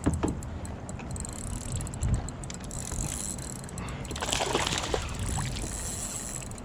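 Water sloshing and splashing around a kayak, with a few knocks against the hull, once at the start and again about two seconds in.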